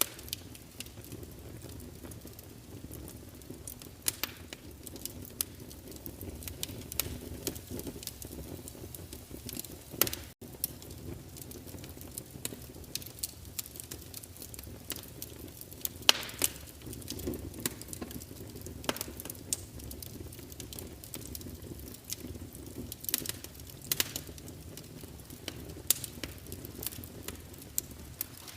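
Wood fire burning in a fireplace, crackling with irregular pops and snaps over a steady low rumble. The sound cuts out for an instant about ten seconds in.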